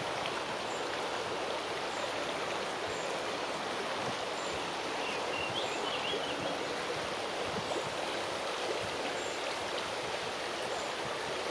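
Strong wind rushing steadily through the leaves of a large tree.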